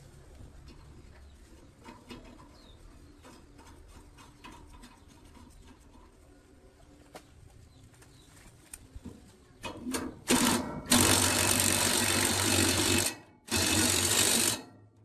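A power tool starting and stopping in bursts: a loud, even rushing noise with a steady low hum beneath. It comes in two short blips about ten seconds in, then a run of about two seconds, a brief pause, and another run of about a second. Before that there are only faint scattered clicks.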